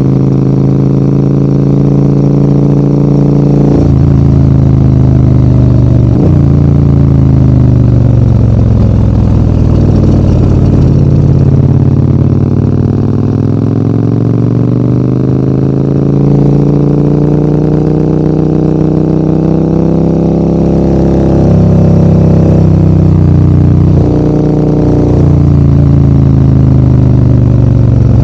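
Maxi-enduro adventure motorcycle engine pulling uphill, its pitch rising and falling with the throttle. There are sudden pitch drops from gear changes about four and six seconds in, a long slow climb in the middle, and more quick drops and pickups near the end.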